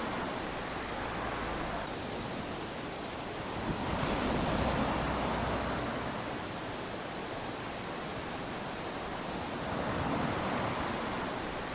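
Small waves lapping onto a sandy beach, their wash swelling and easing in slow surges: one rising just before 4 s and another about 10 s in.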